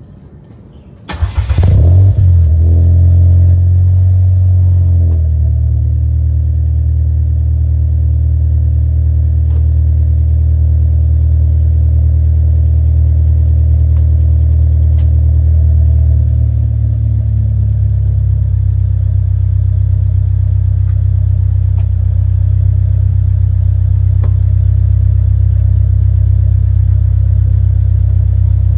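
A 2014 Ford EcoSport's engine, breathing through an Ironcrafts Silent L dual-outlet full aftermarket exhaust system, starts about a second in. It runs at a raised idle for a few seconds, then settles into a steady, deep idle.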